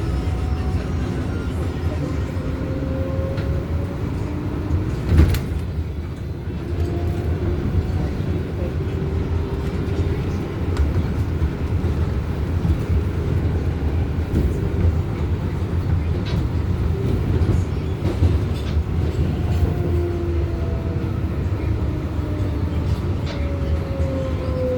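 R188 subway car running between stations: a steady rumble of wheels on rail, with whining tones that glide up and down. There is one sharp clack about five seconds in.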